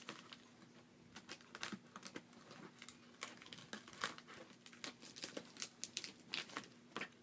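Quiet crinkling and crackling of packaging as a taped cardboard box is opened by hand, in irregular small snaps and rustles.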